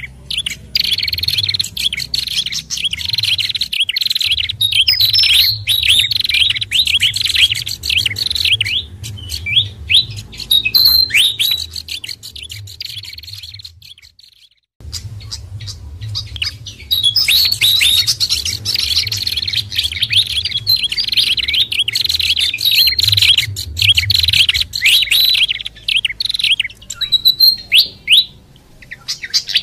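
Dense, rapid chirping and chattering from a bird-lure recording that mixes pied fantail, hill babbler and prenjak calls, with a low hum underneath. It cuts off for about half a second near the middle, then starts again at full strength.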